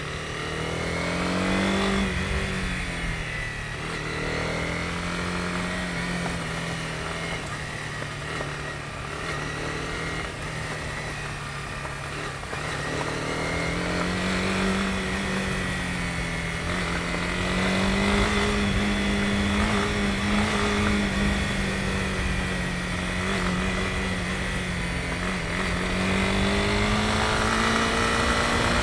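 Honda CB250R's single-cylinder engine running as the motorcycle is ridden, its revs rising and falling with the throttle.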